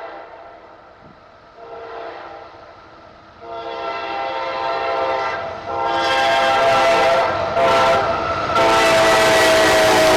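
Locomotive multi-chime air horn sounding the grade-crossing signal as a train approaches, getting louder: two long blasts, a short one, then a long one held into the end. The train's running noise builds under the last blast as it reaches the crossing.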